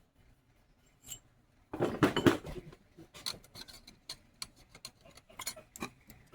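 Small metal objects being handled on a jeweler's bench, clinking and clicking: a rattling cluster of clinks about two seconds in, then scattered single clicks.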